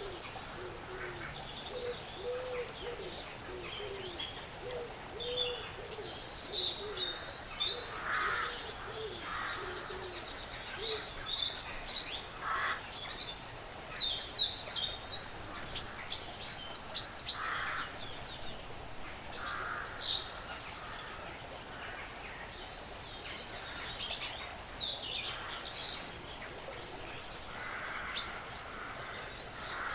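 Woodland birds chirping and calling in short, frequent phrases over a steady faint hiss, with a few rougher, lower calls mixed in.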